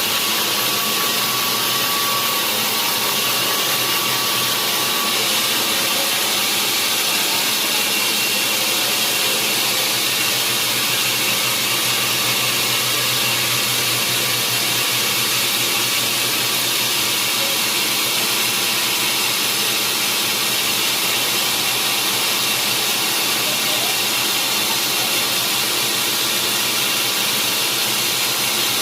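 Sawmill machinery running with a loud, steady, even noise and no breaks or changes.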